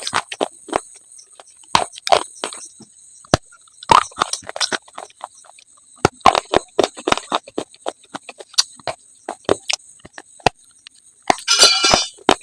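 Close-up crunching and chewing of brittle slate in the mouth: irregular sharp snaps and crackles in small clusters, with a denser crumbling crunch near the end.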